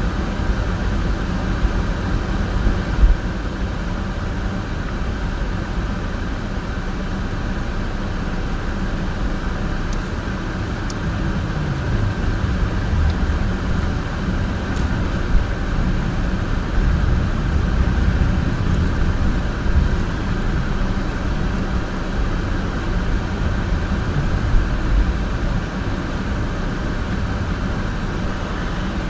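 Car driving on a snowy road: steady engine and road noise, the engine note sliding down and back up about halfway through, with a few brief knocks.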